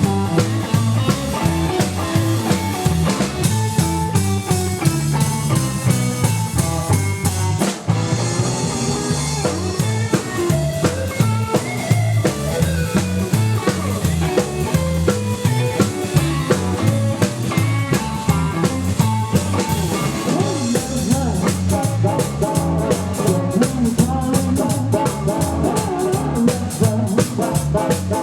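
Live 1950s-style rockabilly band playing: a walking double-bass line, lead guitar and a drum kit with rimshots. The cymbal work gets busier and brighter about three-quarters of the way through.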